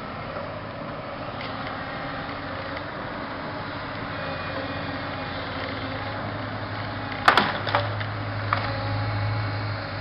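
A heavy machine's engine runs steadily as it pushes against a tree. A cluster of sharp wood cracks and splintering comes about seven seconds in, and the engine works harder just after.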